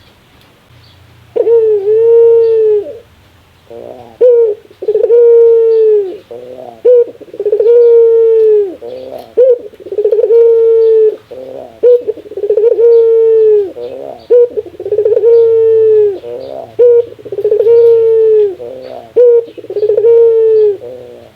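Barbary dove (burung puter) giving its 'laughing' call: about ten loud coos in a row, each held for about a second, with quick stuttering notes between them.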